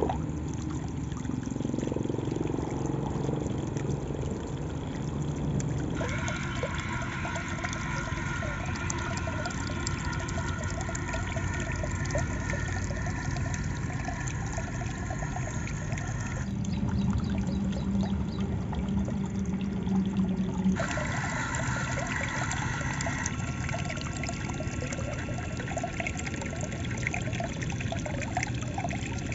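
Water pouring and trickling steadily from a small homemade model water pump, the sound shifting abruptly a few times.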